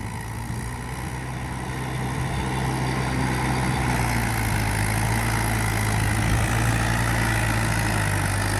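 Mahindra 585 tractor's diesel engine running with a steady low hum, growing louder over the first few seconds and then holding even.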